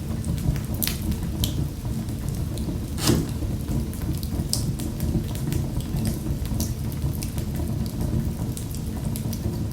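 Wood fire crackling in a fireplace: scattered sharp pops and snaps over a steady low rumble of the flames, with one louder pop about three seconds in.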